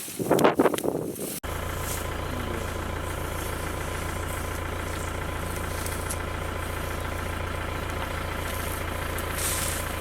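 Safari jeep engine idling steadily. It comes in on an abrupt cut about a second and a half in, after a burst of irregular gusty noise.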